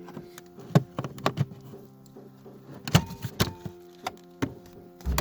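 A series of sharp clicks and knocks from hands and tools working on the car's dashboard trim around the headlight adjustment switch, over soft background music with held chords.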